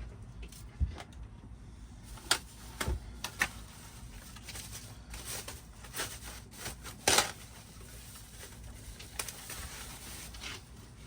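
Scattered clicks, taps and knocks of a cardboard box being opened and its parts handled, with the sharpest knock about seven seconds in.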